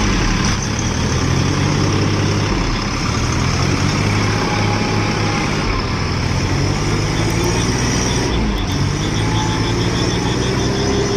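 Tractor diesel engine running steadily, its pitch shifting up and down a few times.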